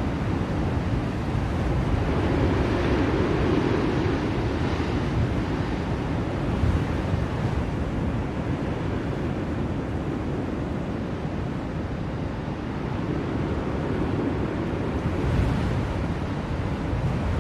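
Blizzard wind blowing as a steady rushing noise, swelling in gusts a couple of seconds in and again near the end.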